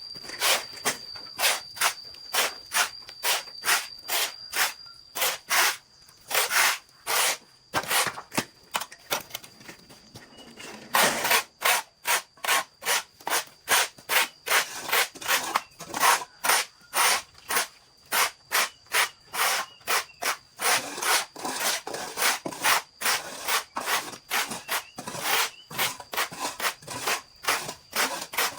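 Saw cutting through wood in steady back-and-forth strokes, about two or three a second, with a brief lull about ten seconds in.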